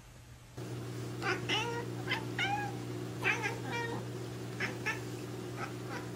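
Domestic cat giving a run of short chirping meows starting about a second in, then a few shorter clipped chirps, over a steady low hum.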